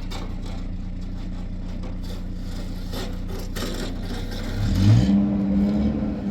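A vehicle engine running at a steady low hum, then revving up with a rising pitch and getting louder about four and a half seconds in.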